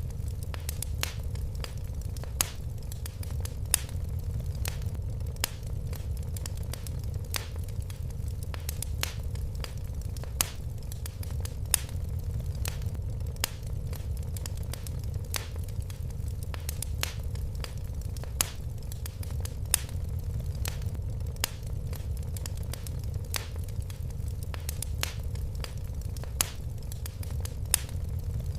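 Wood fire crackling in a fireplace: frequent irregular sharp pops and snaps, a few louder, over a steady low rumble of the flames.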